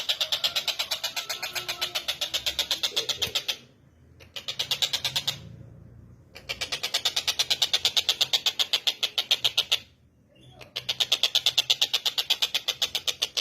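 Tengkek buto (collared kingfisher) calling: a fast, harsh chattering series of about eight sharp notes a second, in three long runs broken by short pauses.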